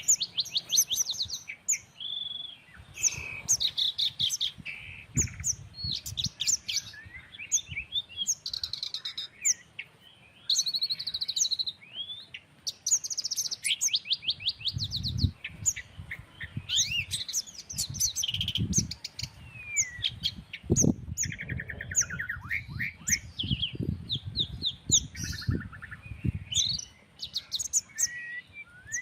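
Several birds calling over one another, with quick chirps, rapid trills and whistled glides. Low gusts of wind rumble on the microphone for stretches in the middle.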